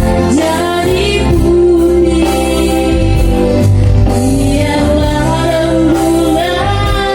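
A solo voice singing long, held notes with vibrato over instrumental accompaniment with a steady bass line.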